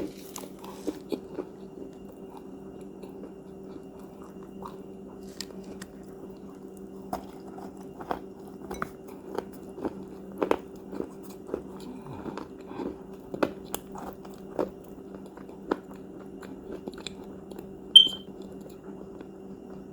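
Crunchy cookies being bitten and chewed close to the microphone: irregular sharp crunches over a steady low hum, with one louder, sharper crack near the end.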